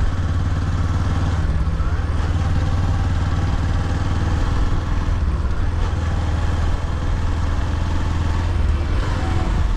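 Motorcycle engine running steadily under way, a constant low hum with road noise over it.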